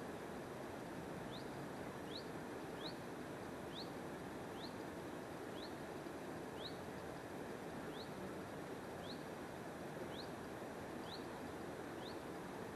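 A small bird repeating one short, high, rising chirp about once a second, over a steady rushing background noise.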